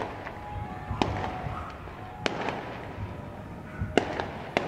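Aerial fireworks shells bursting: four sharp bangs at uneven gaps of about one to two seconds, each trailed by crackle and echo.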